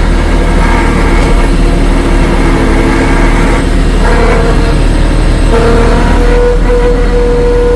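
Tractor engine working hard in low gear while pushing a fallen tree, running loud and steady. Its pitch shifts a few times, around one, four and five and a half seconds in, as the load changes.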